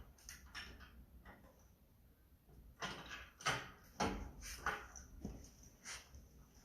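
Irregular metallic knocks and clatter of tools and parts being handled during work under a car, about half a dozen sharp clunks in the second half.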